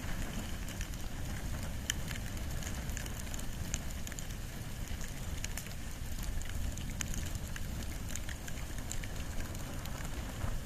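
Campfire of wood and bamboo burning, with many scattered sharp crackles and pops over a steady low rumble of the flames.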